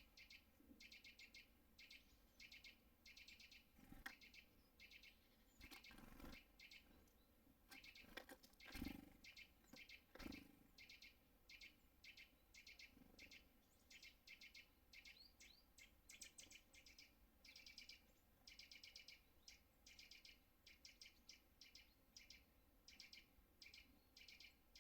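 Small songbirds chirping in quick series of short, high call notes, repeated through the whole stretch. A few louder knocks and thumps come in between, the loudest about nine seconds in.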